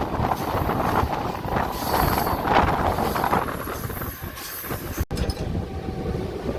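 Mumbai suburban electric local train running on the rails, with a steady rumble and rattle of the coach and a high wheel squeal for most of the first five seconds.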